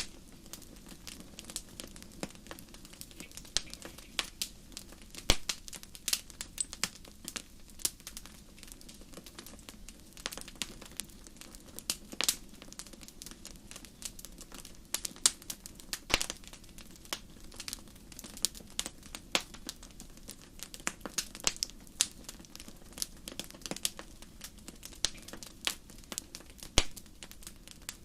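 Wood fire burning in a fireplace, crackling and popping in many irregular sharp snaps over a low steady rush of the flames.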